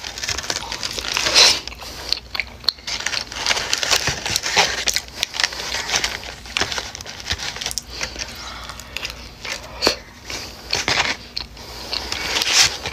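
Close-miked eating sounds: a person biting and chewing ranch-covered fries, with a fork working through the food and rustling the paper liner of a takeout box. There is a steady run of small crackles and clicks, with louder bursts every couple of seconds.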